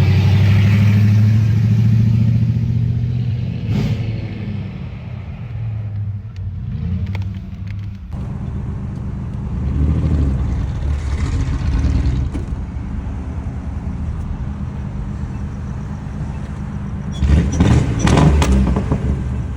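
A cammed Chevy Tahoe's V8 engine rumbling, with its level swelling and falling several times as it is revved. It is loudest at the start and again near the end, where a short rattly burst comes in.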